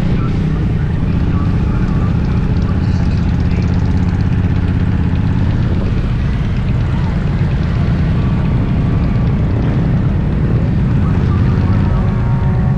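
Motorcycle running at steady speed, heard as a continuous low rumble mixed with wind noise on the microphone.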